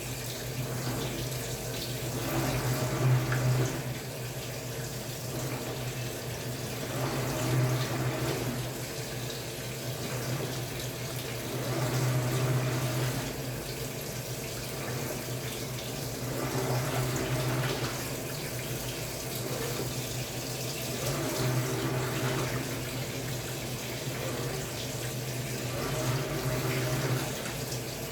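Samsung Wobble 14 kg top-loading washing machine washing a comforter: steady motor hum with water churning, swelling and easing every four to five seconds.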